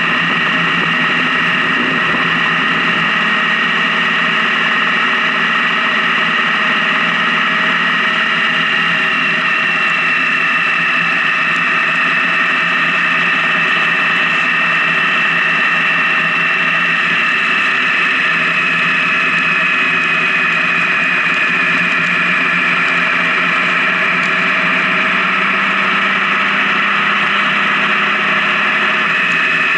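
Honda Gold Wing motorcycle engine running at a steady cruising speed on the highway: a constant drone with a high whine whose pitch sinks slightly over the second half.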